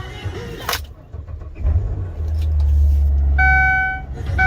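2003 Ford Windstar's V6 engine started from cold: a click, then the engine catches about a second and a half in and settles into a steady low idle. The van's repeating warning chime sounds again near the end.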